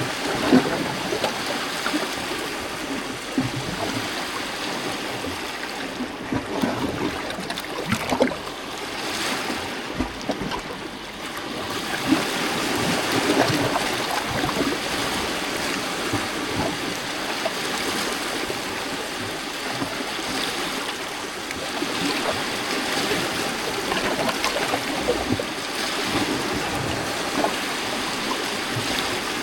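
Small lake waves lapping and washing against rocks, a continuous splashing and gurgling that swells and eases every few seconds.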